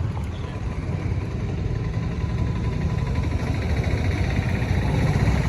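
Vespa scooter's single-cylinder engine idling steadily, a little louder near the end.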